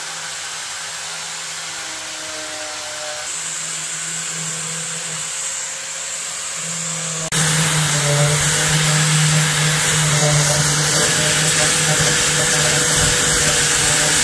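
An electric power tool running steadily with a constant motor hum and hiss. It cuts abruptly about seven seconds in to a louder stretch of the same kind of running.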